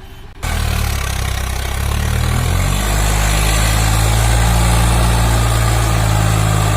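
Swaraj 744 tractor's diesel engine running steadily, cutting in abruptly about half a second in; its low note shifts slightly a couple of seconds later.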